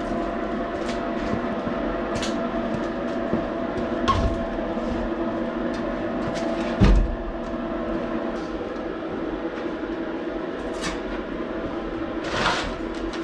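Diesel tractor engine running steadily, with a couple of low thuds about four and seven seconds in as chunks of firewood are tossed down, and scattered light knocks of wood.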